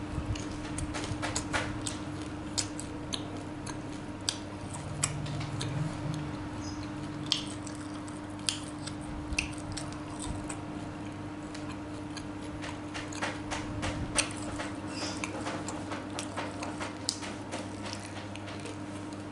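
Close-miked chewing and biting of tofu: wet mouth clicks and smacks come irregularly, several a second at times, over a steady low hum.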